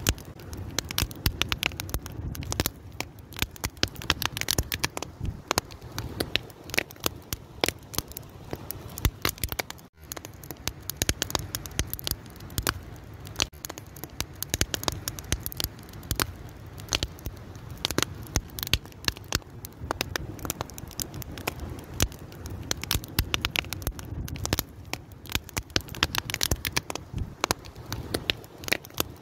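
Wood fire burning, crackling and popping with dense, irregular snaps over a low steady rumble of the flames.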